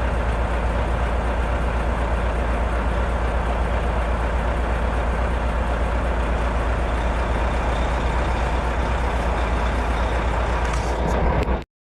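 Grain truck's diesel engine idling steadily, a low even rumble that does not change, until it cuts off abruptly near the end.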